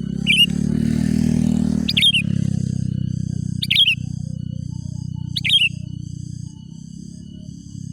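Sooty-headed bulbul giving short, sharp falling chirps, four of them at roughly even spacing, over a steady low hum.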